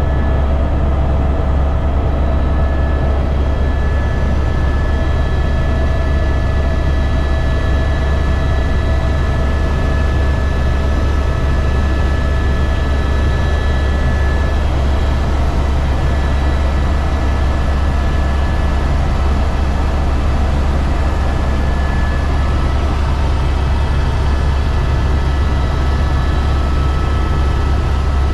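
Helicopter in flight, a loud steady low drone with several thin, steady high-pitched whining tones above it.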